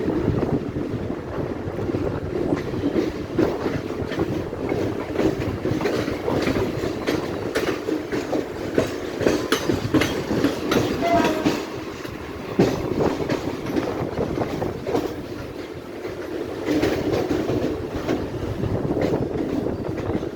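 Mumbai suburban local train running on the track: a steady rumble with wheels clicking over the rail joints.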